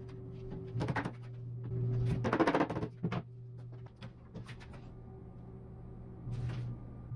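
Several short knocks and a brief clatter of wood being handled, the busiest cluster a little after two seconds in, over soft background music.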